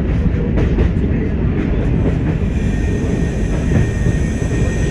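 Class 104 diesel multiple unit running along the line, heard from inside the cab: a steady low engine and running rumble with occasional clicks of the wheels over the rail joints. A faint steady whine joins in about halfway.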